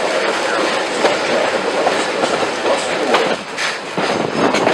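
Excursion train coaches rolling behind a steam locomotive: a steady loud rushing noise with irregular clicks of the wheels on the rails, and wind buffeting the camera's built-in microphone.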